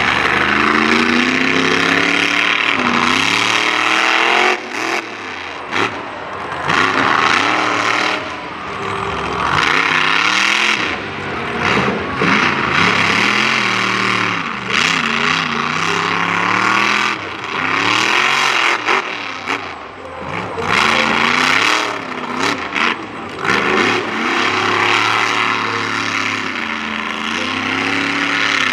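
Monster truck engine revving hard under repeated throttle, its pitch climbing and falling again and again, with short drops in loudness every few seconds as the throttle is let off.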